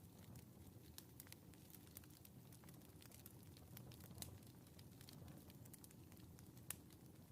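Wood fire crackling in a fireplace, faint: irregular small pops over a low steady rumble, with two sharper pops, one about four seconds in and one near the end.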